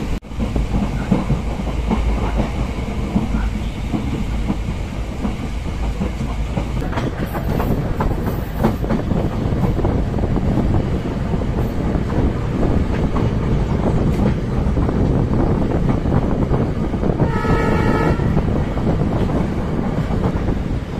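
Indian Railways passenger train running, a steady rumble with the wheels clicking over the rail joints. Near the end the train's horn sounds once, for about a second.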